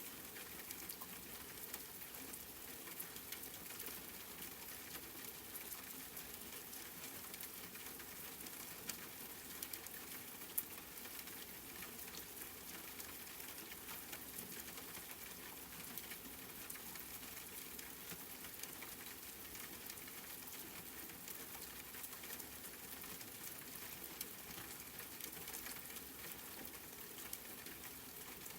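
Steady rain pattering, with many fine drop ticks and a couple of louder single drops about nine and ten seconds in.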